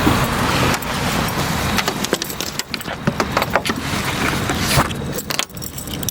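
Rustling, small clicks and rattles of a coat and small belongings being handled, over a steady low rumble.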